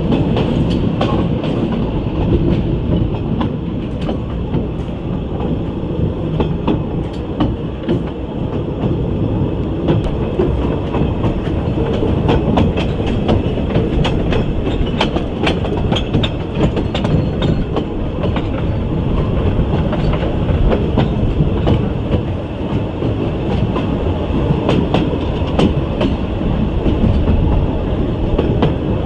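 2 ft narrow-gauge steam train running, heard from inside an open carriage: a steady rumble of wheels on the track with many irregular clicks from the rail joints.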